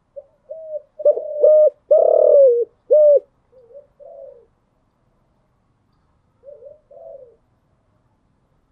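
Spotted dove cooing: one phrase of several coos, loudest about two seconds in, then a softer short coo a few seconds later.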